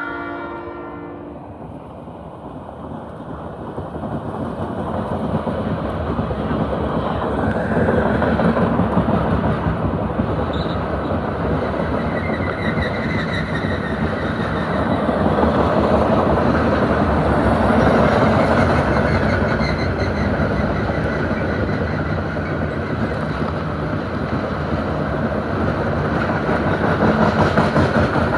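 A freight train of loaded, tarp-covered gondola cars rolls steadily past at close range, with continuous wheel-on-rail rumble and clickety-clack over the rail joints. A locomotive horn dies away in the first second or so.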